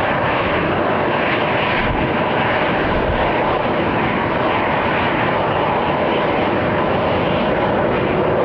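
Airbus A320 jet engines running steadily at taxi power, a constant jet rush with a faint steady whine.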